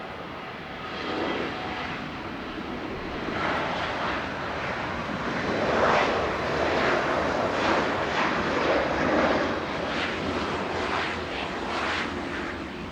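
Jet airliner engine noise that builds over the first few seconds, is loudest about six seconds in, and then eases slightly while staying strong.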